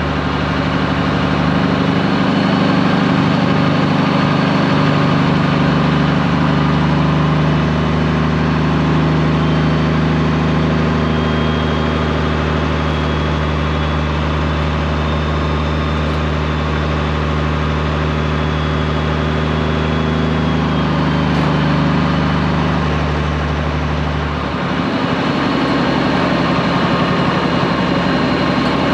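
Straight-piped Peterbilt 389 diesel engine running steadily, with a brief dip and a change of note near the end.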